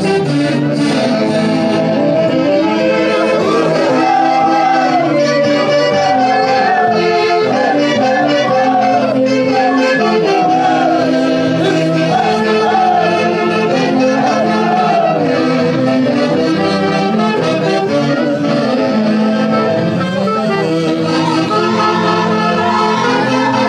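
Andean festival orchestra playing live, saxophones and brass over a steady accompaniment, with a high wavering melody line through the middle.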